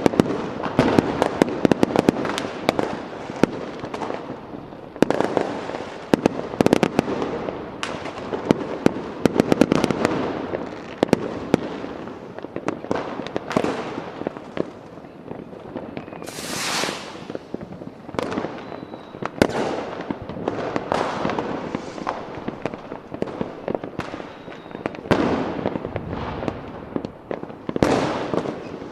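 Fireworks going off continuously: many sharp bangs and crackling reports in quick succession, with a bright hissing burst, like a rocket, at about the middle.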